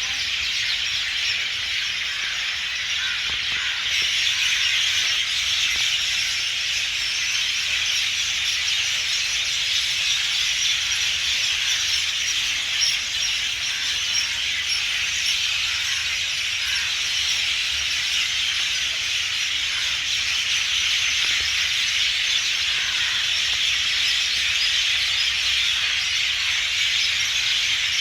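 Dense, steady high-pitched chorus of wild birds singing together, blending into a continuous shrill hiss with no pauses.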